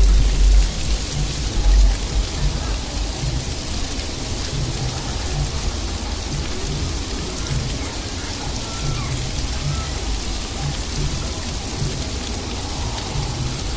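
Sleet pattering steadily on surfaces, with heavy low rumbles in the first two seconds.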